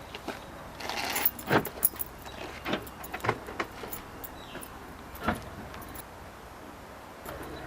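Keys jangling, with a scattered series of clicks and knocks as a car trunk is unlocked and opened.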